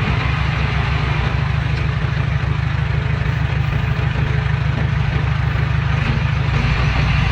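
Diesel engine of heavy earth-moving equipment running steadily, with a rapid low throb.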